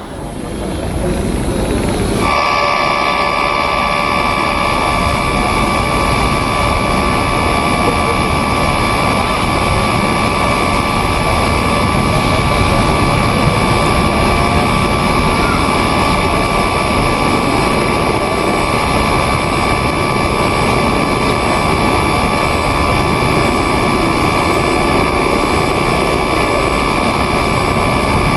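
Jet airliner engines running steadily at the airport, a constant roar with a steady high-pitched turbine whine.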